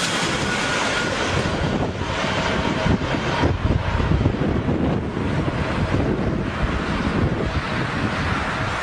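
Wind buffeting the microphone over a steady low rumble, with a faint steady whine.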